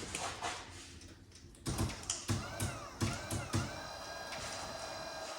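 Electric engine-coolant water pump running and priming, gurgling and knocking irregularly as it pushes air out of the freshly filled cooling system, then settling into a steady whine about four seconds in.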